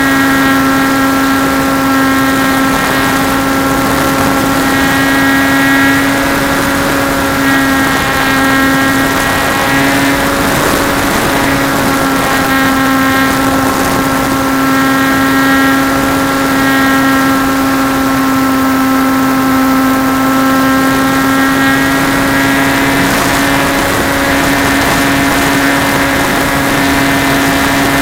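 Trojan T-28 RC model plane's motor and propeller running steadily, picked up by a camera riding on the plane, with air rushing past. The pitch shifts a little with throttle, easing off around ten seconds in and again a little after twenty seconds.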